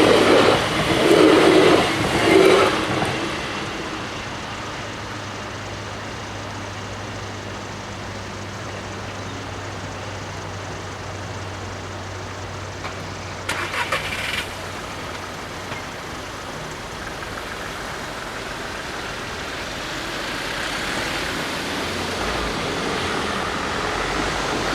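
The last of an MS08 electric train rumbling over the crossing in the first few seconds, then road vehicles at the crossing: a low steady engine hum with a brief clatter about halfway, and traffic noise rising near the end as vehicles move off.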